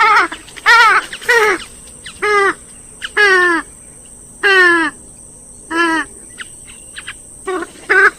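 Repeated loud, harsh, nasal calls of a gallinule, the swamphen and moorhen group of waterbirds. There are about nine calls, each under half a second, several falling or wavering in pitch, at uneven spacing. A thin steady high hiss or tone lies behind them.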